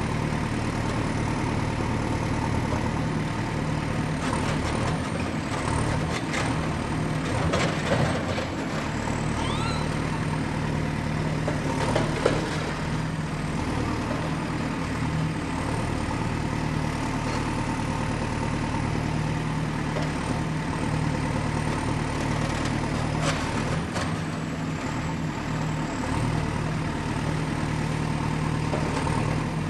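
Excavator's diesel engine running steadily, with a thin high whine that wavers slightly. A few scattered knocks and clanks from the machine at work, the loudest about twelve seconds in.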